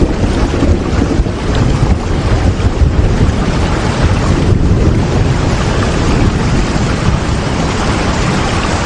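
Steady rain: a loud, even hiss with a deep rumble underneath.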